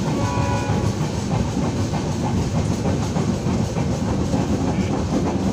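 Passenger train coach running at speed, heard through the open door: a steady rumble of wheels on rail with a fast clatter of wheels over the track. The last tones of a train horn fade out in the first second.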